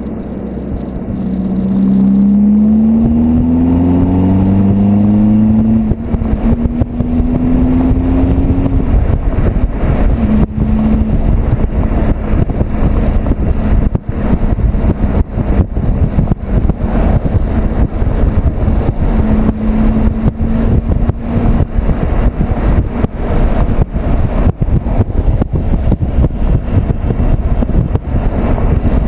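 Volkswagen Golf 2.0 TDI turbodiesel with a stage 2 tune and a 3-inch high-flow exhaust, accelerating: its note rises in pitch, drops at a gear change and rises again. From about six seconds in, a loud steady rush with many short gusts covers the engine.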